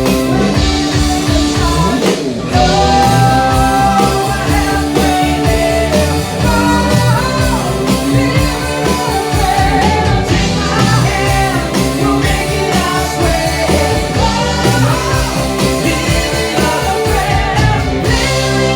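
Rock band playing a song with a sung vocal over electric guitar, bass and drums, keeping a steady beat.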